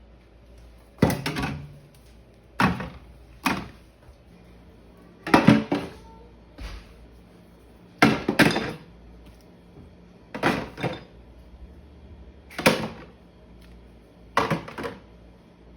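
Food containers and bottles being set down and moved about on refrigerator shelves and in its door bins: a string of clunks and knocks, about a dozen, some in quick pairs, every second or two.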